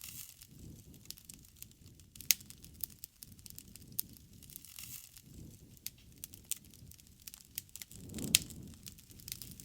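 Campfire crackling: irregular snaps and pops over a low, uneven rush of flame, with a sharper pop about two seconds in and another, over a brief swell, near the end.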